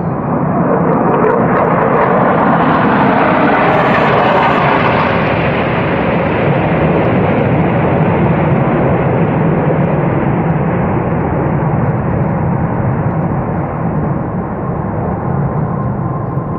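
Military jet aircraft flying past overhead: a loud jet roar that swells to a peak a few seconds in, drops in pitch as the aircraft pass, and then slowly fades.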